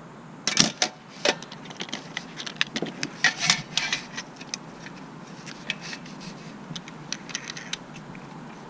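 Hand tools and car parts being handled, clinking and knocking: a sharp clank about half a second in, a cluster of rattling clicks around three seconds in, then scattered lighter ticks.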